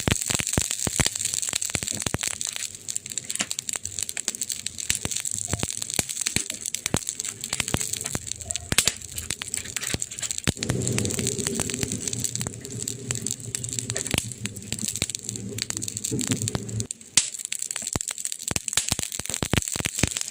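Wood fire burning, with dense crackling and popping over a steady hiss. A low rumble sits underneath from about halfway and cuts off suddenly shortly before a loud pop near the end.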